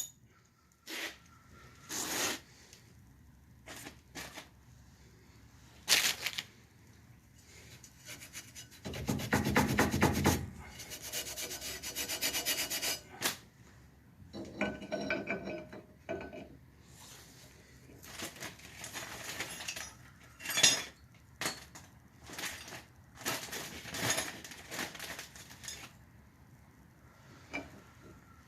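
Hand tools working on car brake parts: intermittent scrapes, rubs and metal clicks. About nine seconds in comes a run of rapid, even clicking lasting a few seconds, then more scraping and rubbing.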